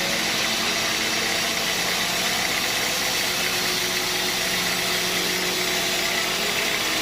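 Sawmill machinery running steadily: a constant mechanical hum with a few steady tones under an even noise, with no change in level.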